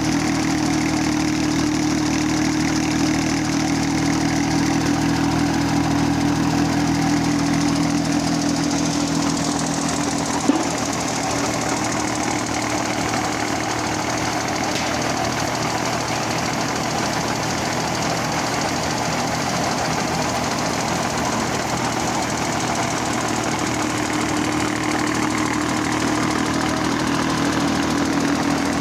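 Tractor engine running steadily at an even speed, with one sharp click about ten seconds in.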